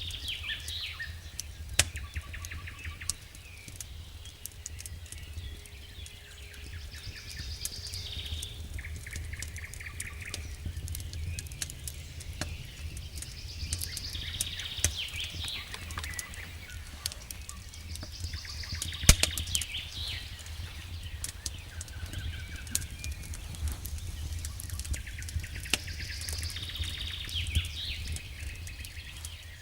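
Wood fire in a fireplace crackling, with many small sharp pops and one louder pop about two-thirds of the way through, over a steady low rumble. Bird chirps recur every few seconds.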